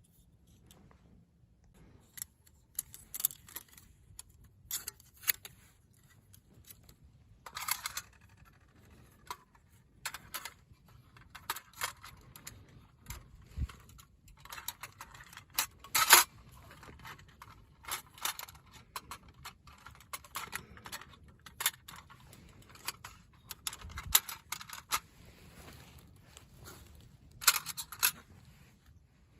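Light metal camping gear being handled: repeated clinks, rattles and scrapes of metal parts knocking together, the sharpest clink about 16 seconds in.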